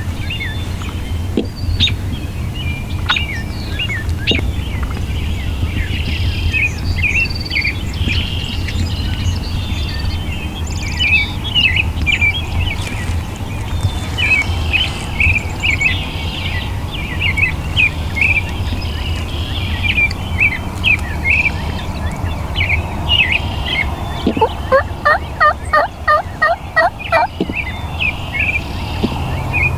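Wild turkey yelping: a run of about ten evenly spaced notes late on, against songbirds chirping and a steady low wind rumble.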